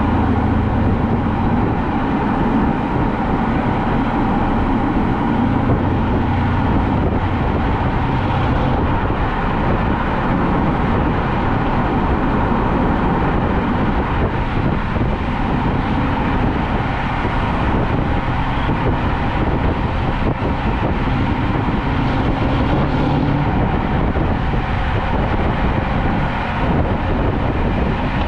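Mercedes-Benz S550's twin-turbo V8 with its exhaust resonator deleted, running under steady driving: a continuous low exhaust drone over road and tyre noise.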